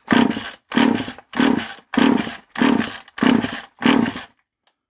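Poulan Micro two-stroke chainsaw being pull-started with the choke on: the recoil starter cord is yanked seven times in quick, even succession and the engine turns over without firing.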